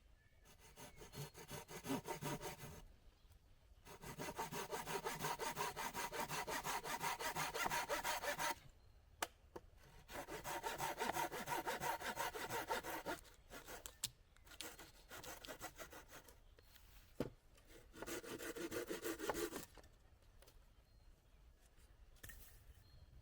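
A hand saw cutting through wood in several bouts of fast back-and-forth strokes, with short pauses between them and a couple of sharp knocks in the pauses.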